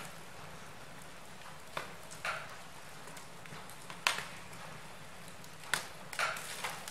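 Wood fire burning in a fireplace: a steady low hiss with scattered sharp crackles and pops, the loudest about four seconds in.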